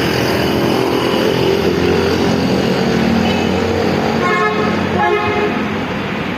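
Steady motor-vehicle engine and traffic noise, with two short car-horn toots, about four and five seconds in.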